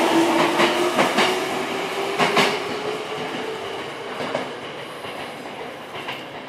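Tobu electric commuter train pulling out of the station, its wheels clacking over rail joints and its motor whine rising as it speeds up. The noise fades steadily as the train draws away.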